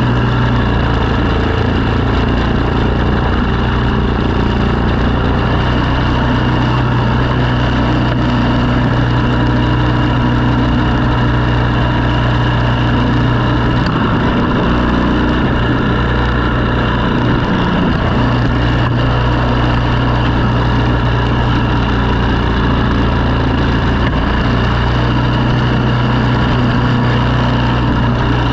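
An engine running steadily, with its pitch dipping briefly around the middle and again toward the end.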